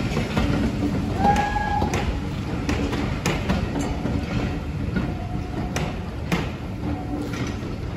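Heritage railway passenger coaches rolling away behind a steam locomotive: a steady rumble with irregular knocks and clicks from the wheels on the track, a short high squeal about a second in, and the sound easing off toward the end as the train draws away.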